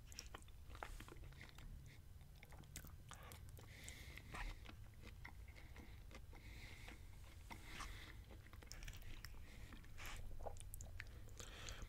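Faint chewing with small wet mouth clicks, and a metal fork picking at food in a paper bowl.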